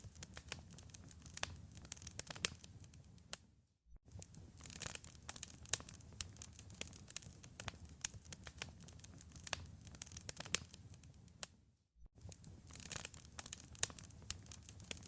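Wood fire crackling in a fireplace: a dense run of sharp pops and snaps over a low, steady rumble of flame. The sound cuts out briefly twice, about four and twelve seconds in.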